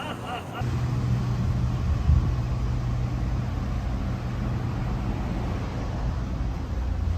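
Steady low rumble of a train in motion, cutting in abruptly about half a second in, with a constant low hum.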